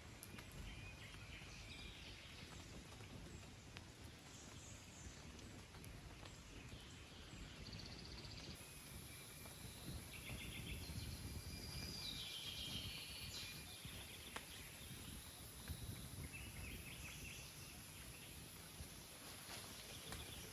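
Birds chirping and calling in short repeated phrases over a faint steady outdoor background noise; a high steady hiss or buzz joins about eight seconds in.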